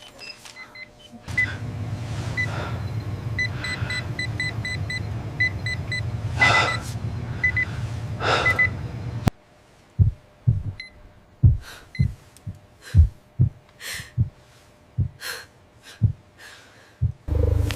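Hospital patient monitor beeping in short high beeps over a steady low hum, with a couple of louder whooshes. About nine seconds in the sound cuts off suddenly and gives way to a string of low thumps a fraction of a second apart.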